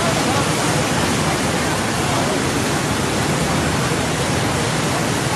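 Floodwater rushing, a loud steady hiss of water with no breaks.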